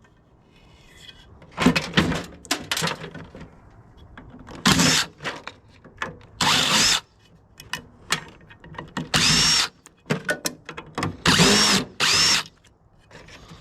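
Power drill spinning out screws in about five short bursts, each a second or less, its motor whine rising and falling with each trigger pull. Clicks and rattles of handled metal parts come between the bursts.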